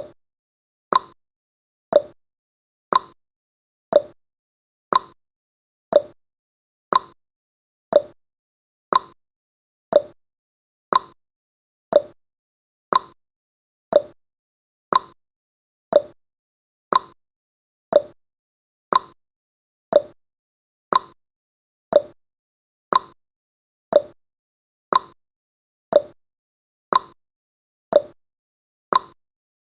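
Countdown timer's clock-tick sound effect, one short sharp tick each second, evenly spaced, each dying away quickly.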